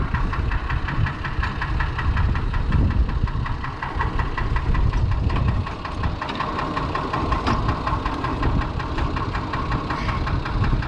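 Fordson Major tractor's six-cylinder Perkins diesel engine idling steadily, with a rapid, even beat of firing pulses.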